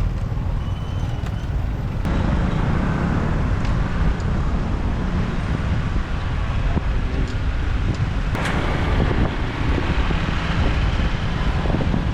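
Traffic and wind noise from a moving motorbike in city traffic: a steady low rumble of engines and wind on the microphone. It grows louder about two seconds in, with a short rush of noise later on.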